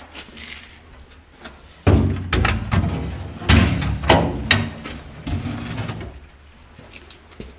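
A removed car fuel tank, still holding some gasoline, clunking and knocking as it is handled, set down and angled on a tire: a run of loud knocks and bangs over about four seconds.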